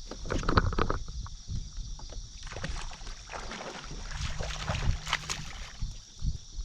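Scattered knocks and clicks of gear being handled aboard a fishing kayak, over a steady high-pitched hiss.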